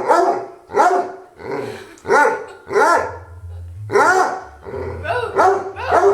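Two dogs barking and howling together in a run of short, arching calls, a few a second, with a couple of brief pauses. A low rumble sits underneath the second half.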